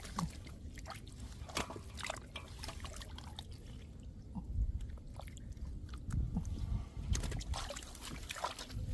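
Shallow muddy water sloshing and splashing in short, irregular bursts, as from hands and fish moving through the mud of a drained rice field.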